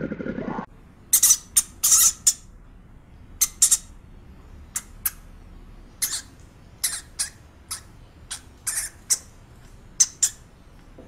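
A hamster giving many very short, high-pitched squeaks in irregular clusters. In the first second a crocodile's low growl cuts off suddenly.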